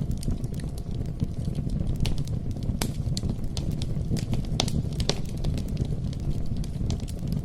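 Wood fire crackling: a steady low rumble of burning with frequent, irregular sharp pops and snaps.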